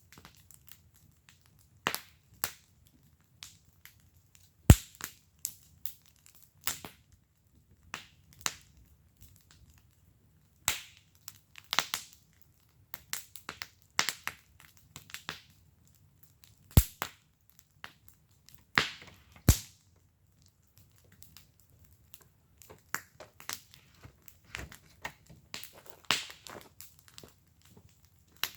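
Wood fire burning in a fire pit: irregular sharp crackles and pops, with a few much louder snaps spread through, over a faint low hum.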